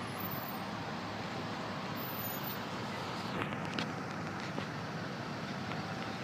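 Steady road traffic noise from cars moving along a congested street, with a few faint ticks about three and a half seconds in.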